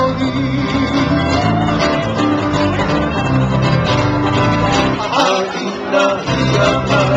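Live acoustic music led by plucked guitar, with steady bass notes that drop out briefly about five seconds in.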